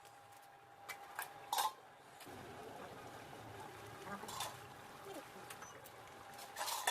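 Metal spoon clinking against a cooking pot a few times while stirring a thick curry, over a steady thin hum.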